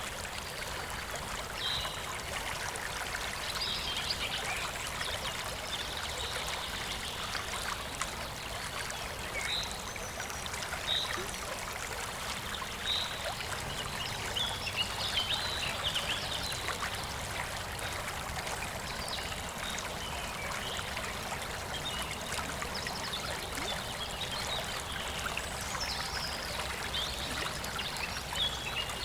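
Shallow, clear stream flowing and trickling steadily over stones, with brief high-pitched flicks of sound scattered throughout.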